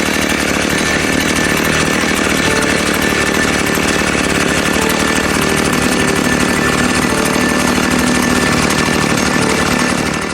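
A motor-driven power tool running loudly and steadily, with a rapid pulsing rattle.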